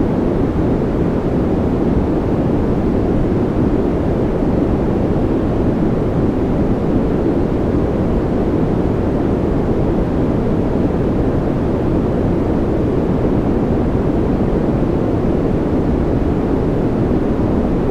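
Continuous white noise for sleep: a steady, unchanging hiss with no pulses or breaks. Its weight sits low, so it sounds deep rather than bright, with little in the high treble.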